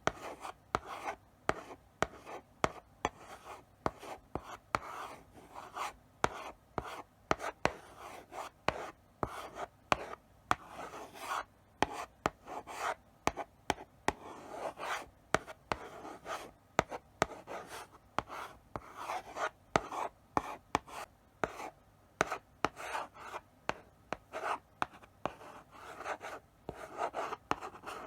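Chalk writing slowly on a blackboard: a steady succession of short scratching strokes, each stroke beginning or ending with a sharp tap of the chalk on the board.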